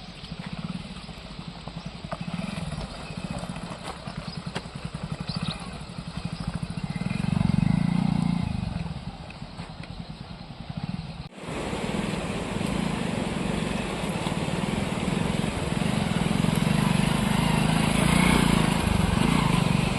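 Small single-cylinder motorcycle engine, a Hero Splendor, running while it is ridden down a rough, rocky slope. It swells louder for a couple of seconds partway through. After an abrupt cut about eleven seconds in, it is louder, with more hiss.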